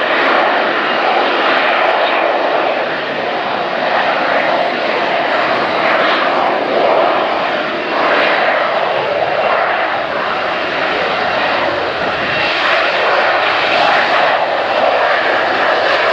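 BAe Sea Harrier FA2's Rolls-Royce Pegasus turbofan running loud at high power: a dense, steady jet noise that swells and eases slightly.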